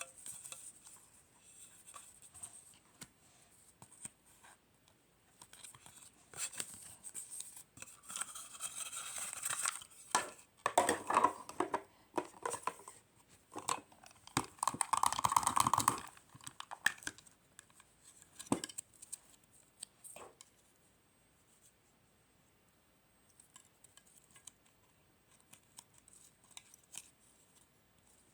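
Packaging material being handled and torn: scattered light clicks, then loud stretches of rustling and tearing about a third of the way through and again around halfway, then a few taps and faint clicks.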